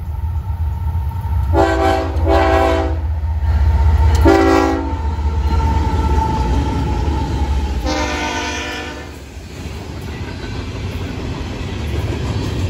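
Florida East Coast freight train passing close by: the lead GE ES44C4 locomotive sounds its horn four times, the last blast the longest, over the low rumble of the diesel engines. After the locomotives pass, the horn gives way to the rolling clatter of loaded ballast hopper cars.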